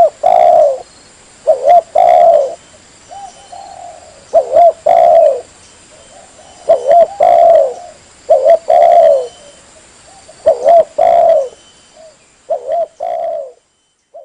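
Spotted dove (tekukur) cooing: a repeated call of a short coo followed by a longer, falling coo, about one phrase every two seconds, six or seven times, stopping abruptly near the end. Lure call to draw spotted doves in.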